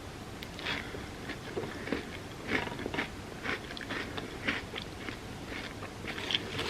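Close-up mouth sounds of a person eating a Biscoff cookie-butter sundae: chewing with irregular crisp crunches, a few every second.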